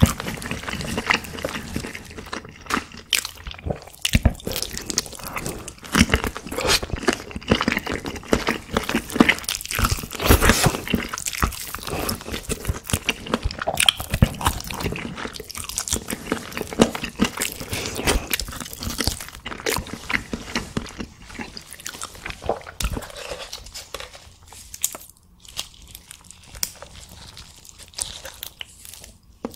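Close-miked ASMR eating of chicken: biting and chewing in a dense run of short, sharp mouth clicks, which becomes sparser and quieter over the last few seconds.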